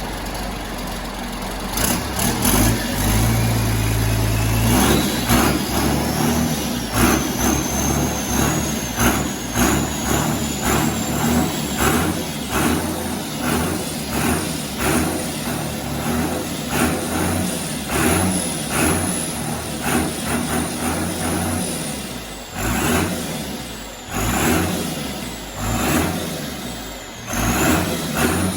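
Turbocharged six-cylinder Ford 2725E Dover diesel in a Fordson Major, revving, with a thin turbo whistle that climbs steadily to a high pitch over the first dozen seconds and holds there. Near the end the throttle is blipped several times: the engine surges and falls back, and the whistle dips and climbs again with each blip.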